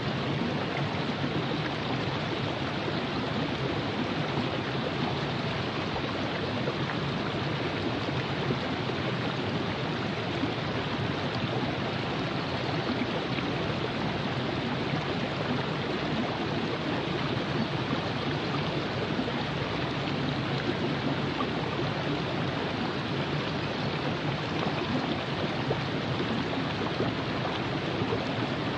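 Virgin River flowing over rocks: a steady, even rush of water with no breaks.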